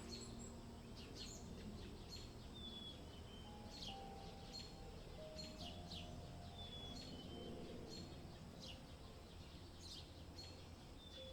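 Faint birds chirping, short high calls repeating every second or so, over soft background music of long held notes and a low steady ambient rumble.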